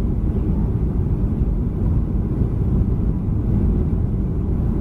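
Steady low rumble of a Boeing 737-300 heard from inside the passenger cabin: its CFM56 engines and airframe running at an even, unchanging level, most of the sound deep and rumbling.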